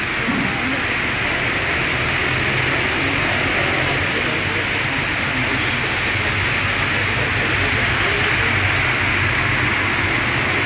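Heavy rain pouring steadily onto a waterlogged street, a dense, even hiss of falling water at a constant level.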